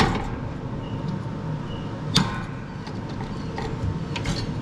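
Knocks and clicks from a rubber drive belt being worked off the riding mower's pulleys: a sharp knock at the start, another about two seconds in, then a few lighter clicks near the end.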